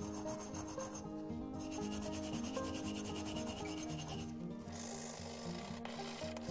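A wooden sanding stick rubbed in quick, even back-and-forth strokes over a painted cast iron box cutter handle, dressing off the paint between the raised lettering. The strokes pause briefly about a second in and again just past four seconds.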